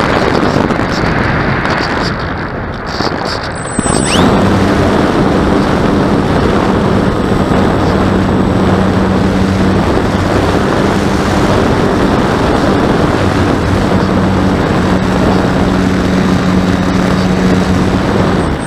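Wind rushing over the microphone. About four seconds in, a steady low hum joins it and keeps going.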